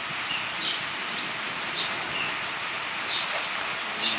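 Steady rain falling during a thunderstorm, a continuous hiss, with a bird giving short high chirps over it about every half second.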